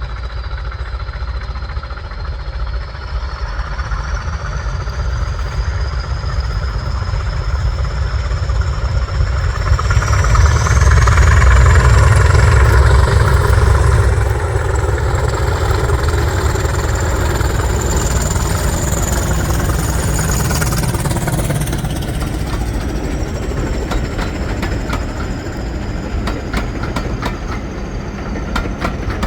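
Diesel locomotive working a train: heavy engine rumble builds with a high whine rising in pitch, loudest about ten to fourteen seconds in. The whine then holds steady while wheels click over rail joints towards the end.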